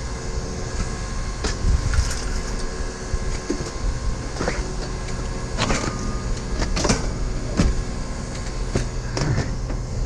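Scrap metal being handled and tossed, with half a dozen scattered clanks and rattles over a steady low engine rumble.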